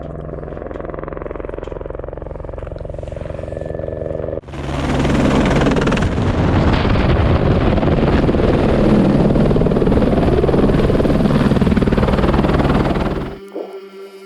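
Helicopter running, its rotor beating steadily. About four seconds in, the sound jumps much louder and fuller, and near the end it gives way to music.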